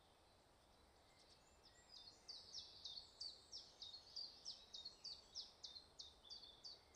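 A songbird singing a long run of quick, high, downward-sliding notes, about three a second, starting about two seconds in, over a faint steady background hiss.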